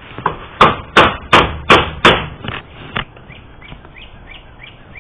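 Hammer blows: five loud, sharp strikes about a third of a second apart, then two lighter ones.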